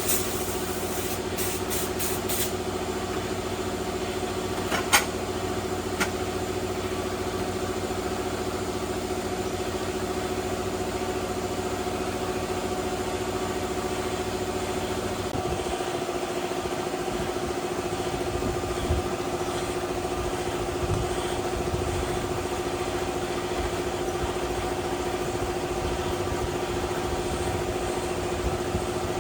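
An engine running steadily at idle, with a steady hum. About halfway through, the low end of its sound changes and grows rougher. Two sharp clicks come a second apart early on.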